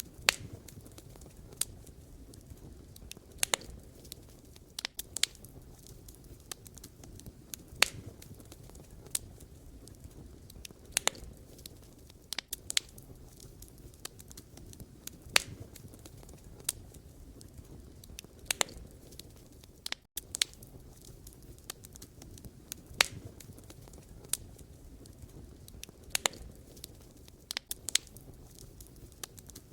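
Campfire of burning firewood crackling, with sharp pops and snaps at irregular intervals, several every few seconds, over a low steady rumble of the flames.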